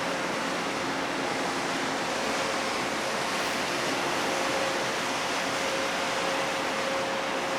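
Steady rushing noise with a faint, steady machinery hum underneath, from a large ship manoeuvring in to berth.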